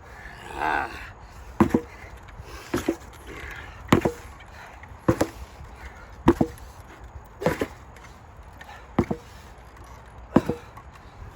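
An 8 lb sledgehammer striking a training target again and again: about eight heavy knocks, roughly one every second or so.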